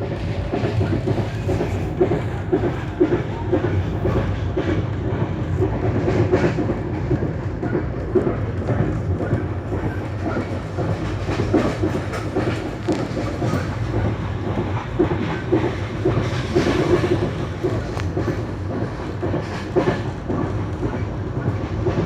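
Passenger train running at speed, heard from on board: a steady rumble with frequent knocks of the wheels over the track.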